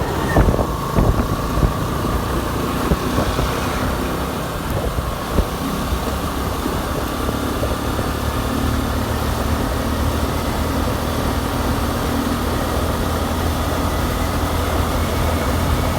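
Motorcycle engine running steadily while riding, with road noise. A thin whine drifts slowly up in pitch, and a few sharp knocks come in the first several seconds.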